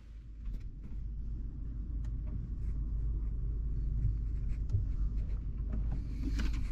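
Roomba robot vacuum running inside a sheet-metal cold air return duct: a steady low rumble from its motor and brushes with scattered light clicks and knocks.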